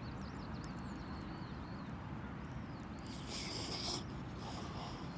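Outdoor ambience: small birds chirping faintly over a steady low rumble. A few faint clicks, with a brief hiss about three seconds in and another near the end.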